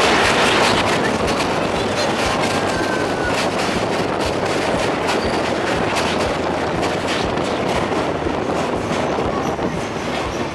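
Passenger train running over a steel truss railway bridge, heard at the carriage window: a steady rush of wheel-on-rail noise with many sharp clicks from the wheels. It is a little louder in the first second.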